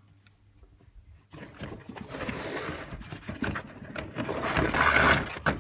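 Cardboard and plastic packaging rustling and scraping as a vacuum cleaner hose and tools are dragged out of their box. It starts about a second in, grows louder and stops abruptly near the end.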